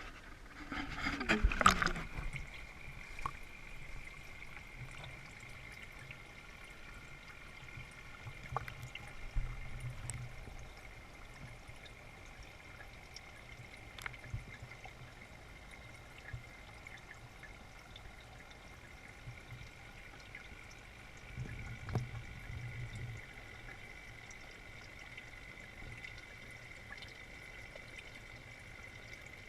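Water trickling steadily into an aquaponics fish tank, faint, with a steady high whine underneath. A brief louder noise comes about a second in.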